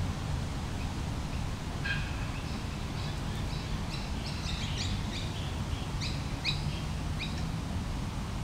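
A small bird singing a quick run of short, high chirping notes, starting about two seconds in and stopping about a second before the end, over a steady low background rumble.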